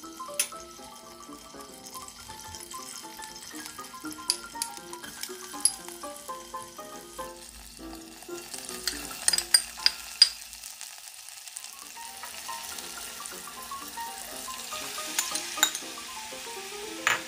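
Sliced onion, then kimchi, sizzling in hot cooking oil, the hiss starting about halfway in and growing, with a metal spoon clinking against the pot several times. Background music plays throughout.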